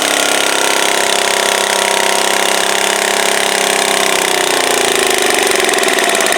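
Stock garden tractor engine running loud at high revs, its pitch falling from about four seconds in as the engine slows.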